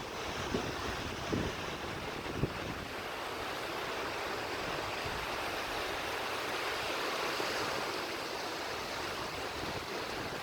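Surf washing steadily onto the beach, with a few brief low thumps in the first few seconds.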